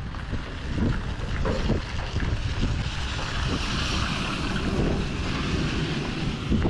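Pontoon boat running on open water: wind buffets the microphone and water rushes past, over a steady low rumble.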